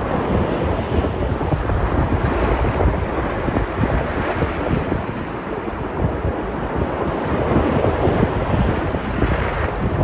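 Sea surf washing and breaking on the shore in a continuous wash that swells now and then. Wind buffets the microphone with a low rumble.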